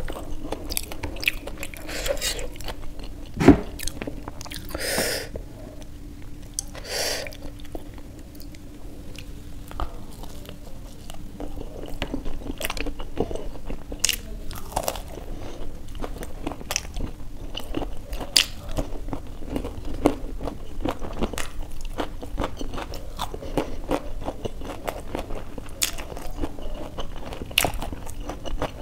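Close-miked chewing and biting of crisp fried samosa pastry and raw salad: a steady run of small crunches and mouth clicks. A single sharp knock comes about three and a half seconds in.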